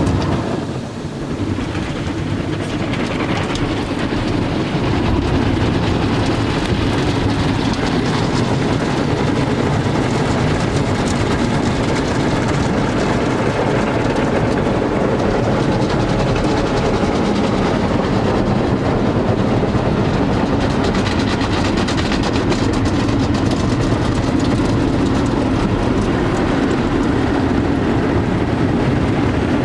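Automatic car wash machinery working over a van: a loud, steady rush of noise with a constant fine clatter that builds over the first few seconds, then holds level.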